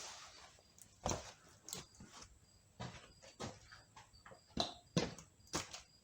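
Irregular knocks and clunks, about eight of them spread unevenly over several seconds, as parts and tools are handled and set down.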